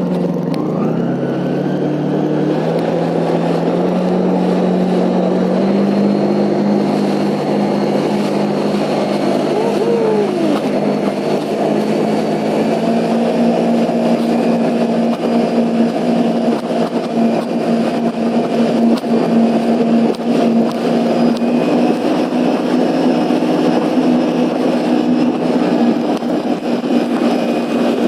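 Jet ski engine running under way, its pitch climbing in steps over the first few seconds as it speeds up, then holding steady at speed, over a constant rush of water and wind.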